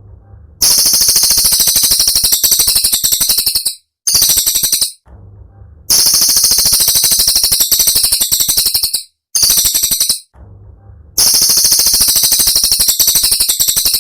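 Cililin song: loud, shrill, rapid-fire chattering phrases about three seconds long, broken by short pauses and recurring about every five seconds as a looped training recording.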